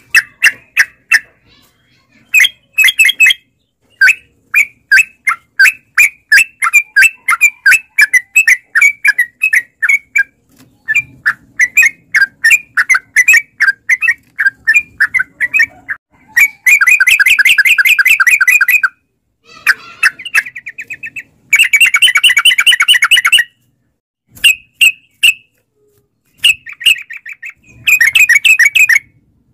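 Yellow-vented bulbul (trucukan) singing long, fast runs of short chirping notes, broken by brief pauses, with two denser rapid bursts past the middle.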